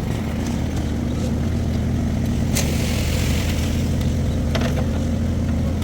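An engine running steadily at a constant speed, with a sharp clatter about two and a half seconds in and a couple of light knocks near the end.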